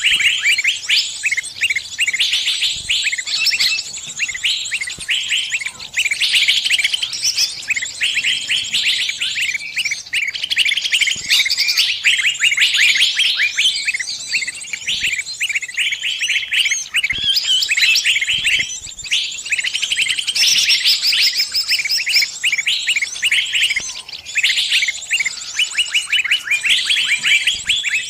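Small songbird chirping rapidly and without let-up, high-pitched twittering notes crowding over each other with only brief pauses: the distress calls of a trapped bird calling to its flock.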